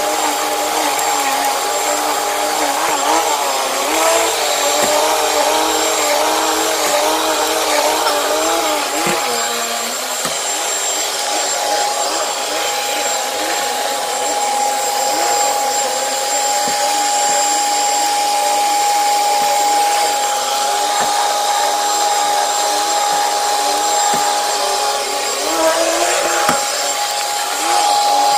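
Commercial HEPA vacuum cleaner running steadily on carpet with a high motor whine, picking up pet hair and dry soil. Its pitch wavers for the first several seconds, then holds steady.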